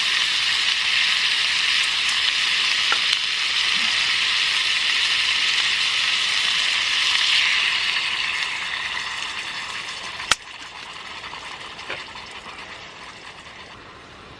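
Sukiyaki sizzling in a pan, a steady hiss that dies down from about eight seconds in. There is a sharp click about ten seconds in.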